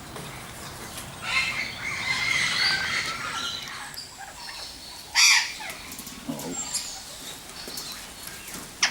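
Aviary birds calling: a stretch of busy chattering about a second in, then one short, loud squawk about five seconds in and another sharp call near the end.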